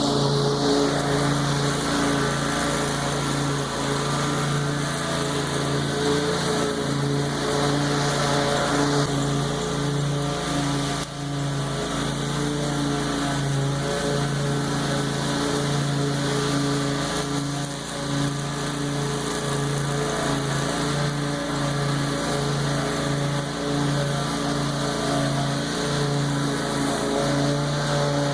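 Lawn mower engine running steadily under load while cutting tall, overgrown grass.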